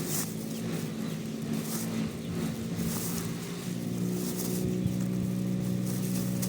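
An engine running steadily, with a low even hum.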